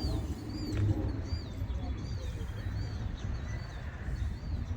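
A bird calling over and over, a short rising-then-falling chirp repeated about every two-thirds of a second, over a steady low rumble.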